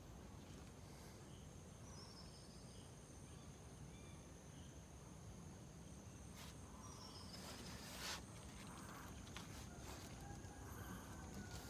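Faint outdoor ambience of a steady high-pitched insect drone, with a few short chirps and a brief rustle about eight seconds in.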